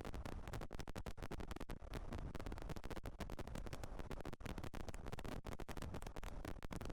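Continuous crackling and scratching from a faulty GoPro microphone: dense, irregular clicks, a fault the owner could not cure even with a new microphone, over a low rumble.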